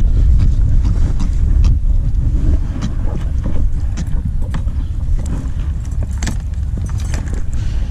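Wind buffeting the microphone in a steady low rumble, with scattered small clicks and taps of handling.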